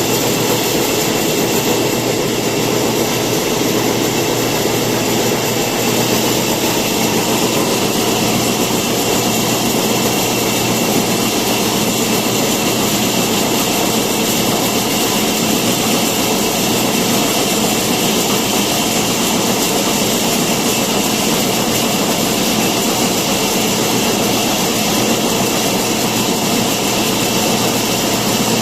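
A woodworking machine running steadily, a constant loud noise with a steady hum and whine that holds unchanged.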